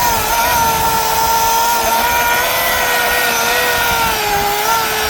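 Milwaukee battery-powered chainsaw cutting through a pine limb: a steady electric-motor whine that wavers and sags slightly in pitch as the chain bogs down in the wood.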